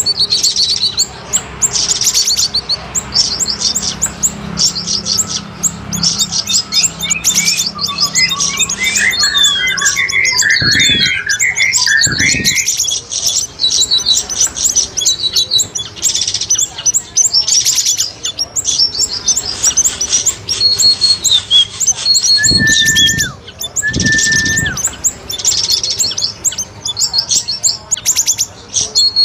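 Bird-lure recording of siri-siri and cucak rawis calls: dense, rapid high chirping trills without a break. A run of lower, bubbling notes comes about ten seconds in, and two short held whistles come near the end.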